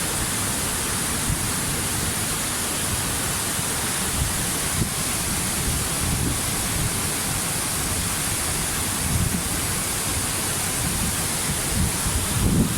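Waterfall: a steady, even rush of falling water with a shifting low rumble underneath, the rumble growing stronger near the end.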